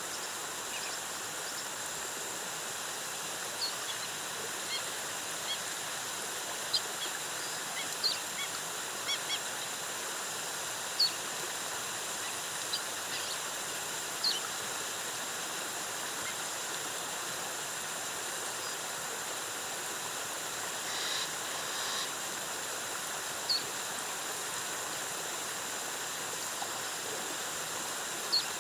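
Steady rush of a rainforest waterfall, with short bird chirps scattered through it.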